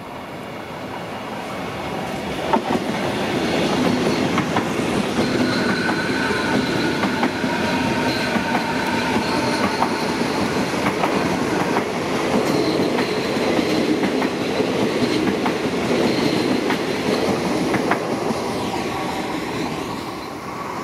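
Renfe Class 449 electric multiple unit passing through a station without stopping. Its noise builds over the first few seconds and holds steady, with wheels clicking over the rail joints and a faint whine, then eases off near the end as the train draws away.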